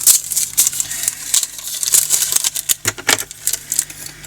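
Small resin diamond painting drills poured and rattled into a plastic storage container: a rapid, uneven patter of tiny clicks.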